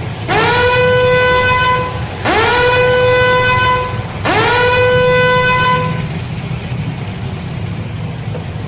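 A vehicle horn gives three long blasts about two seconds apart. Each blast swoops up in pitch at its start and then holds steady. A steady low rumble runs underneath.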